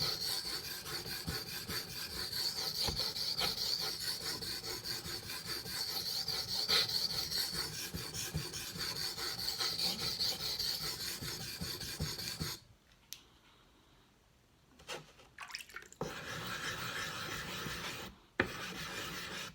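Steel knife blade stroked back and forth on a wet King whetstone in slurry: a steady grinding rasp. About two-thirds of the way through it stops for a few seconds, with a stroke or two in the pause, then goes on again, with another short break near the end.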